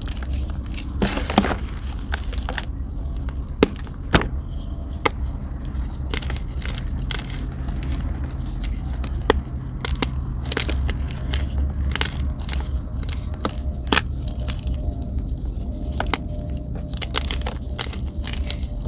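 Blocks of gym chalk being crunched and crumbled: irregular sharp cracks and crackles, some much louder than others, over a steady low hum.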